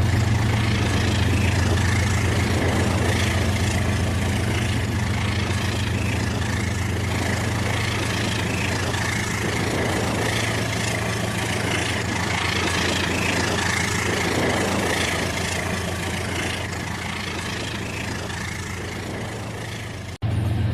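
Battery-powered toy train running on its plastic track: a steady motor hum with fast, even clicking. It fades a little toward the end, with a brief sudden dropout just before the end.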